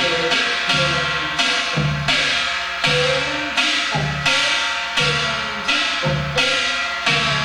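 Slow Gyeongsang-do jajinmori rhythm played by one player in yanggojang style: a barrel drum struck with the left hand and a kkwaenggwari small gong struck with the right. Low drum thumps alternate with bright, ringing metal strokes in a steady, even pattern.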